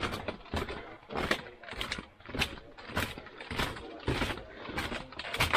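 Footsteps walking on a bamboo bridge: a steady series of sharp knocks of feet on the bamboo slats, a little under two a second.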